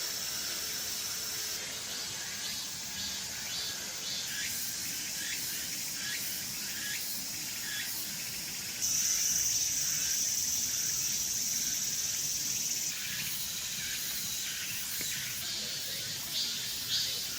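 Cicadas singing: a steady high-pitched buzz that swells louder for about four seconds midway, with pulsing, repeated calls coming in near the end.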